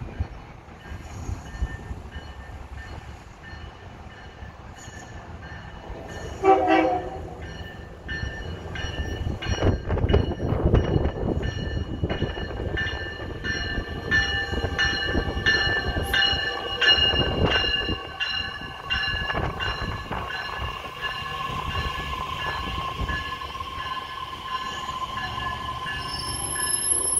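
Metra Electric bilevel commuter train arriving at the platform: a short horn blast about six seconds in, then rumble and evenly spaced wheel clicks over the rail joints as it pulls in, with a steady high squeal as it slows.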